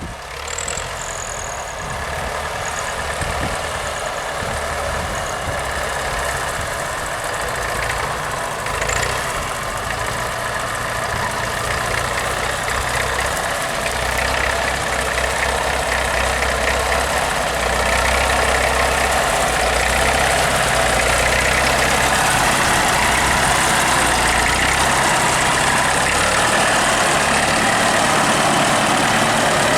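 Vintage Nuffield tractor's engine running steadily as the tractor works. It grows louder over the first eighteen seconds or so as it comes nearer, then holds level.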